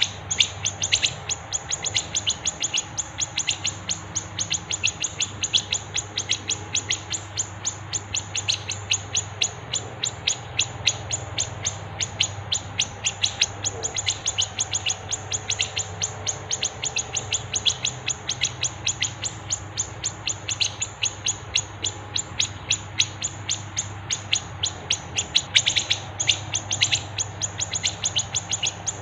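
Recorded songbird birdsong: a fast, unbroken run of short, high chirps, about four or five a second, over a faint low hum.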